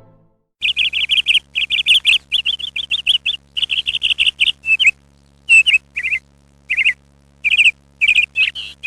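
A small bird chirping in quick, high-pitched runs of chirps, several a second, that come in bursts broken by short pauses, over a faint steady hum.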